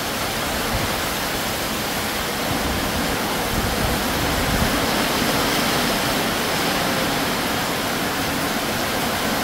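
Heavy tropical downpour lashing down in a steady rush of noise on the yard and the porch's corrugated metal roof, with wind blowing through it.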